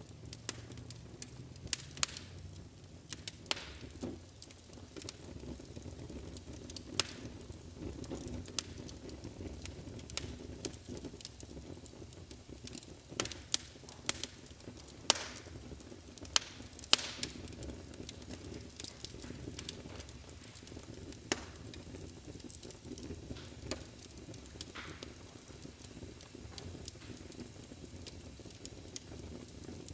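Wood fire burning in a fireplace: a steady low rumble of flames with irregular sharp crackles and pops throughout, a few louder snaps about halfway through.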